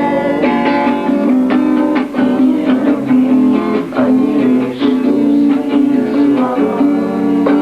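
Guitar playing an instrumental passage without singing: a quick run of plucked notes over sustained chords.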